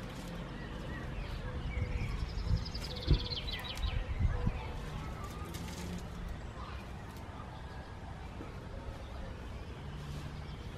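Garden birds chirping, with a fast run of short high notes falling in pitch about two seconds in, over a steady outdoor background with a few soft low knocks.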